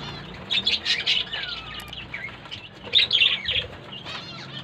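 Small pet birds in an aviary chirping in short clusters, with one falling whistled call a little after the first cluster.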